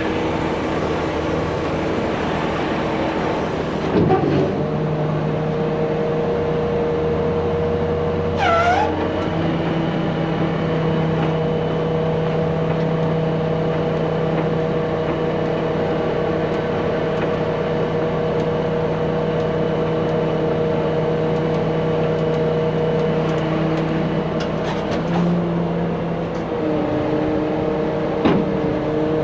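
A truck engine running steadily, its speed stepping up or down a few times, with one short descending squeal about eight seconds in.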